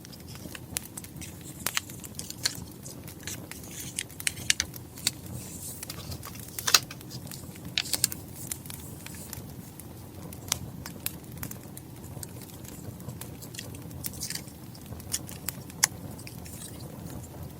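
Wood fire crackling: irregular sharp pops and snaps over a steady low rumble, with one louder pop about seven seconds in.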